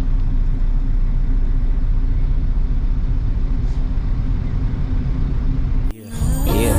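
Steady low rumble of a semi truck's engine. It cuts off sharply near the end, and a hip hop track starts.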